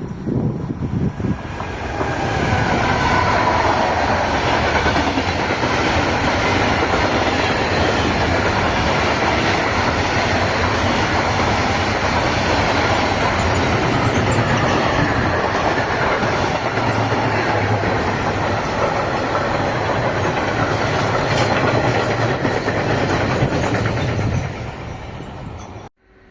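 A long train passing close by, its wheels and cars running on the track in a steady, loud rush for about twenty seconds. The sound builds over the first couple of seconds, fades near the end and then cuts off abruptly.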